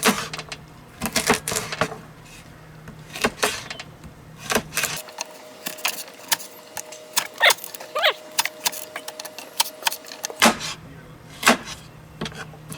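Knife chopping carrots on a cutting board: a run of irregular, sharp chops.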